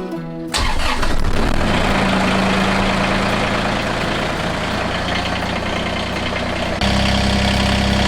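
Banjo music cuts off about half a second in. A Kubota BX2380 compact tractor's diesel engine then runs steadily and steps up louder about seven seconds in.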